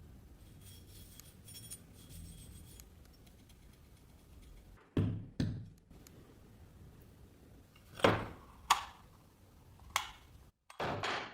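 Five sharp knocks of hard objects striking each other, two close together, then two more about three seconds later and a single one after that, followed by a brief scraping rustle that stops abruptly.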